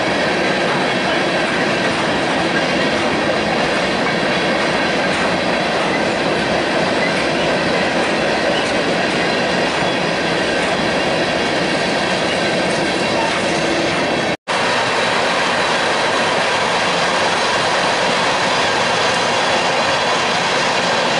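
Freight train of covered hopper cars rolling past at speed: a steady rumble of steel wheels on rail with faint high ringing tones from the wheels. The sound breaks off for an instant about two-thirds of the way through, then the passing train continues.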